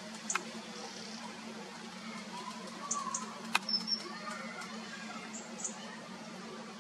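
Faint high chirps and short whistles from small birds over a steady low hum, with two sharp clicks, one about a third of a second in and one about three and a half seconds in.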